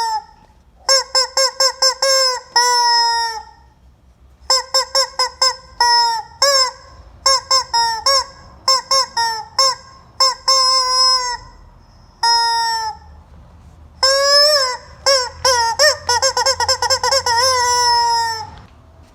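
Rubber chicken squeeze toy squawking: quick runs of short squawks mixed with longer held ones, in bursts with short pauses between.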